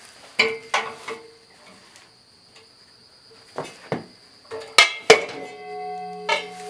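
Steel disc-harrow gangs being handled and knocked about: several sharp metal clanks, about half a second in, around three and a half to four seconds and around five seconds, the struck concave discs ringing on with a bell-like tone after the later knocks.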